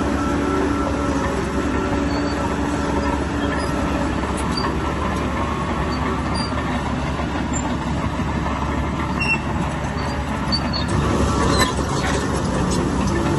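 Crawler bulldozer's diesel engine running steadily under load, with the metallic clank and squeal of its steel tracks. A short rattle comes near the end.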